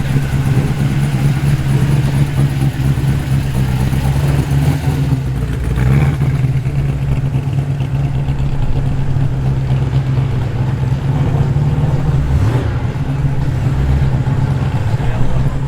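Modified Holden VL Commodore's engine running at low revs with a steady deep rumble as the car rolls slowly past.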